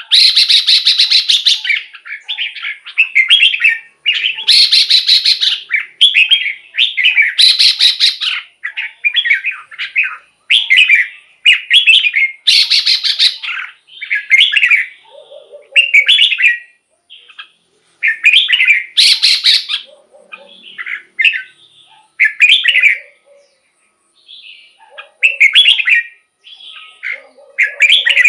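Red-whiskered bulbul singing: a string of short, chirpy whistled phrases about a second apart, several of them louder than the rest.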